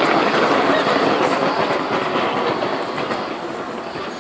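Fireworks crackling densely and without a break, easing slightly toward the end.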